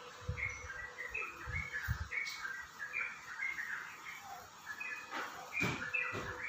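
Small birds chirping repeatedly in short high notes, several a second, with a few low thumps near the end.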